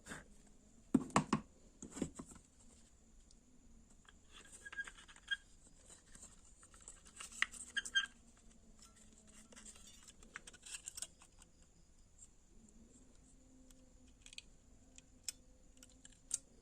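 Small clicks and scratches of wires and the bulb's plastic driver housing being handled while the tube's wires are joined to a new driver board, with two louder knocks about a second and two seconds in. A faint steady high whine runs underneath.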